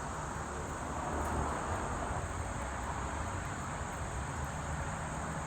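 Steady outdoor ambience: a continuous high-pitched insect chirring over a low, even background rush.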